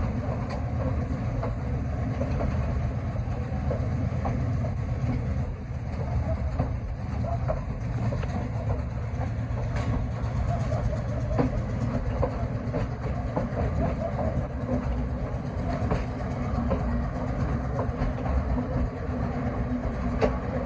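Train running across a railway bridge: a steady low rumble with scattered clicks and knocks from the wheels and cars.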